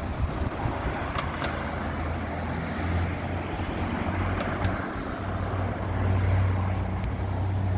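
Steady low rumble of road traffic, swelling twice as vehicles pass, with a few faint ticks.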